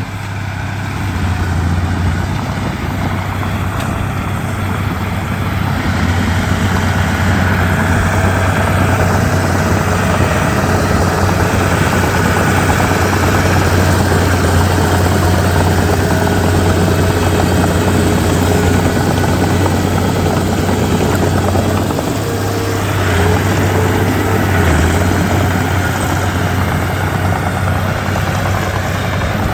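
Komatsu D31P bulldozer's diesel engine running steadily under load, a deep low drone. The engine swells over the first few seconds and dips briefly about two-thirds of the way through.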